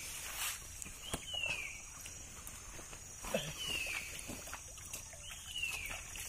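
A bird calling a short descending whistle three times, about two seconds apart, over light splashing of river water as a banana leaf is rinsed by hand.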